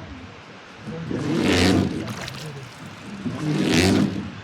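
Oars of a wooden river boat pulling through the water in a steady rhythm, a swishing surge of water about every two seconds.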